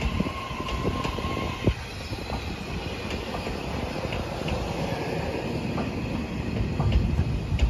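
TRA EMU3000 electric multiple unit rolling slowly past, its wheels knocking over rail joints with a steady rumble and a faint squeal. A steady high tone stops about two seconds in.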